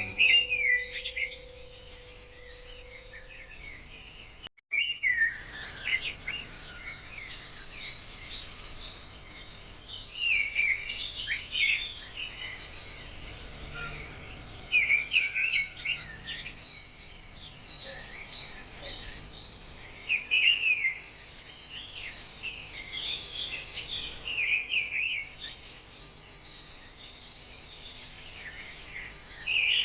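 Songbirds chirping and singing in many short, overlapping calls over a soft background hiss, with a brief gap in the sound about four and a half seconds in. A faint held musical note lingers for the first few seconds.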